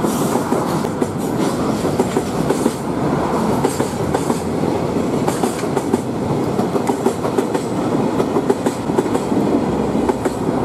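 Container wagons of a freight train rolling past, their wheels giving a steady clickety-clack of clicks over the rail joints.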